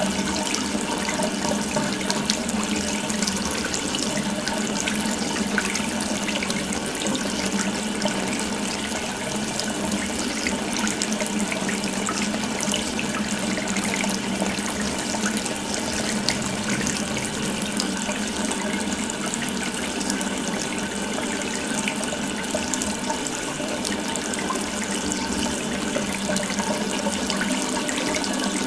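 Water running steadily from an open tap, a continuous splashing stream with no change.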